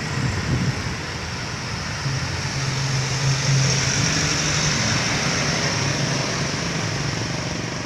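A truck's diesel engine pulling hard under full throttle. It makes a steady low engine drone that grows louder about two seconds in and eases off near the end.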